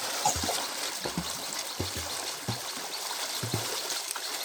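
Water sloshing and trickling around a person in the water during a swimming lesson, with soft low thumps recurring about every 0.7 seconds.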